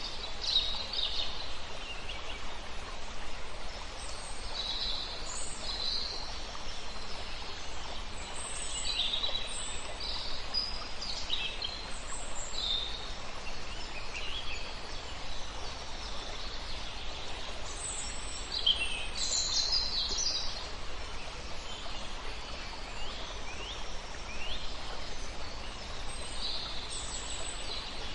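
Several songbirds chirping and singing in short, overlapping phrases over the steady rush of a river.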